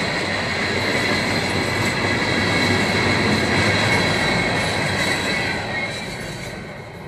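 Freight rock train's Herzog ballast hopper cars rolling past with a dense rumble and a steady high squeal from the wheels. The sound fades away from about six seconds in as the last car clears.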